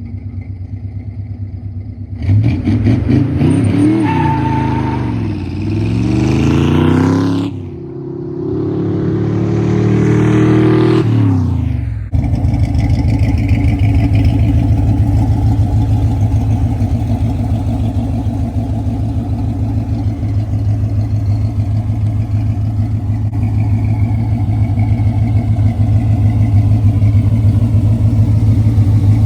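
1976 Corvette's small-block V8 running through Boom Tubes exhaust: it idles, then is revved up and down several times. After a sudden cut it runs steadily and louder.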